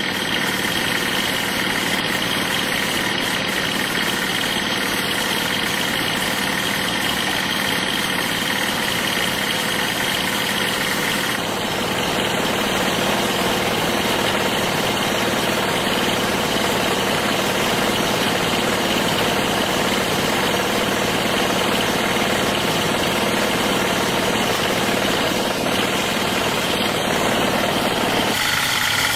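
A steady mechanical running noise from a motor or engine, with a few steady whining tones over it. Its character changes abruptly about eleven seconds in and again near the end.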